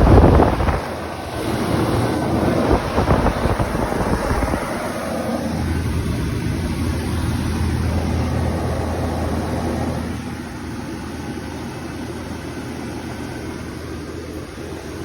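Outdoor air-conditioner condensing units running: a 2003 American Standard Allegiance 11 (2 ton) with its condenser fan and compressor going and a steady low hum, then, about ten seconds in, a quieter 1996 Bryant 2-ton air conditioner. A loud rush at the very start.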